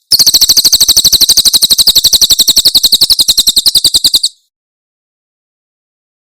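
Cililin bird's 'tembakan' song: a loud, high, rapid trill of evenly repeated notes, about thirteen a second, lasting about four seconds and stopping abruptly.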